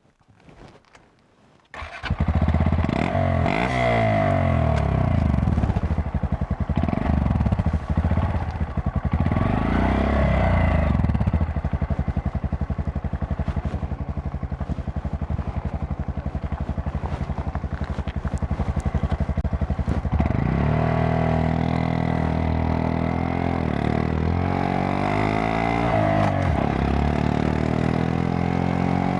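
Honda Monkey 125's single-cylinder engine, coming in suddenly about two seconds in after a quiet start. The revs rise and fall several times, run steadier through the middle, then climb in repeated rising sweeps as the bike accelerates through the gears.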